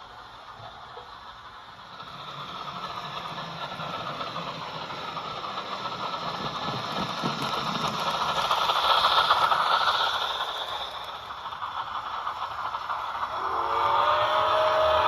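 An HO-scale steam locomotive's DCC sound decoder playing steam sounds through a small speaker: a hiss that swells and fades, then a chime steam whistle blowing near the end.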